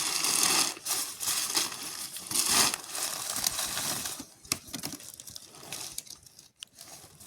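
Irregular rustling and crinkling noise with scattered clicks, louder in the first few seconds and fading later.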